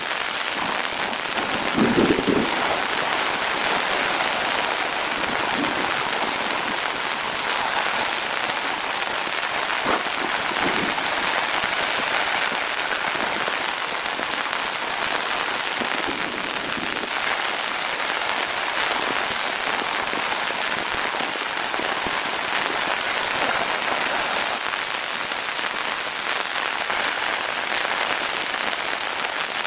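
Heavy rain falling steadily, an even hiss of drops, with a short low rumble about two seconds in.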